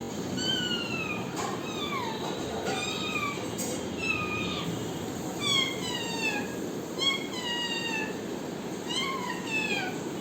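Pet parrot giving a string of drawn-out calls, each sliding down in pitch, about one a second.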